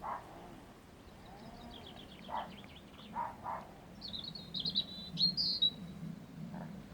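A dog barking in the background, about five single barks spaced out, while a small songbird sings high above them. The bird gives a short trill and then a louder warbling phrase in the second half.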